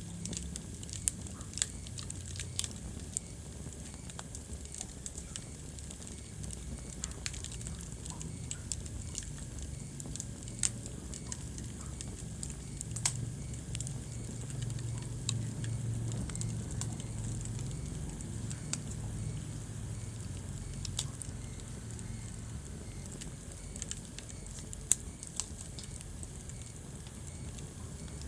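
Wood fire burning in a fireplace: a steady low rumble of flames with frequent sharp crackles and pops, a few of them louder.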